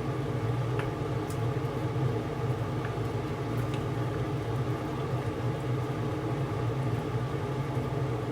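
Kitchen range hood vent fan running with a steady hum, with a few faint light ticks.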